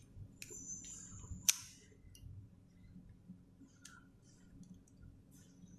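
Faint clicks of plastic Rubik's cube pieces being handled and snapped together, with a short high squeak of plastic sliding on plastic that ends in a sharper click about one and a half seconds in, then a few small ticks.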